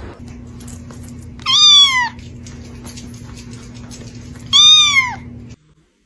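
Domestic cat meowing twice, each meow about half a second long, falling in pitch at the end.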